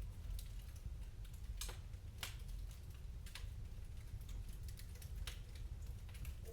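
Wood fire crackling in a fireplace: irregular pops and snaps over a low steady rumble.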